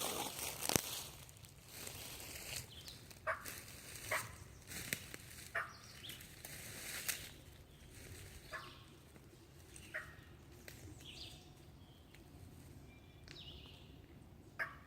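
Hen-turkey yelps on a hand-worked turkey call: short single notes that drop in pitch, spaced about a second apart, with footsteps through leaves near the start.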